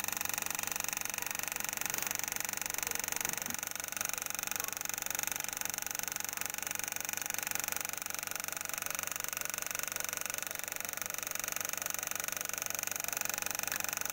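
Small refrigeration compressor running steadily: a constant electric hum with a hiss over it.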